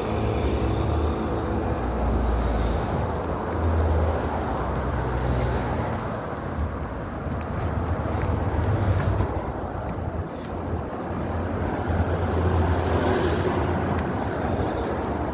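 Uneven wind rumble on the microphone of a moving bicycle, over a steady wash of road and traffic noise.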